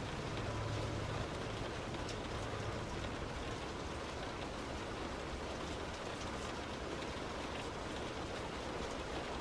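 Heavy rain drumming steadily on a moving car, mixed with the hiss of tyres on a wet road, with faint scattered drop ticks. A low hum fades out in the first couple of seconds.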